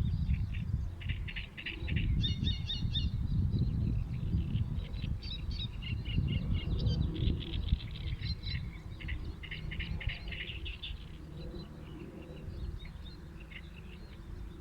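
Small birds chirping and trilling in rapid, high-pitched series, several overlapping, over a strong low rumble.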